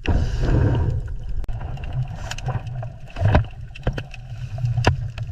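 Water sloshing and gurgling over a low rumble, with scattered sharp clicks, played as the underwater sound of a grouper.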